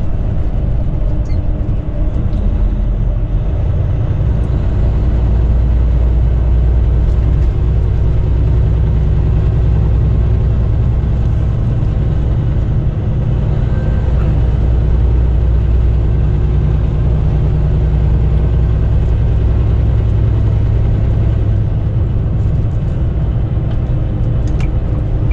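Semi truck's diesel engine running steadily under road noise while driving on the highway, a low rumble that grows slightly louder about five seconds in.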